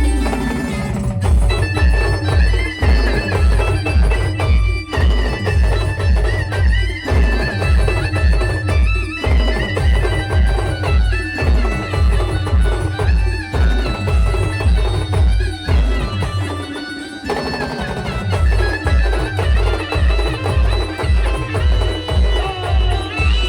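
Loud live band music: a steady, fast bass-drum beat under a wavering, reedy lead melody. The beat drops out for a moment about 16 seconds in, then comes back.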